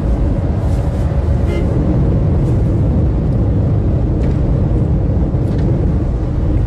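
Steady low rumble of a road vehicle on the move, engine and road noise.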